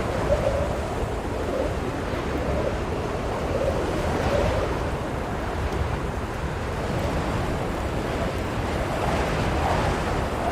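Blizzard wind blowing steadily: a deep, continuous rush with a faint wavering howl in it.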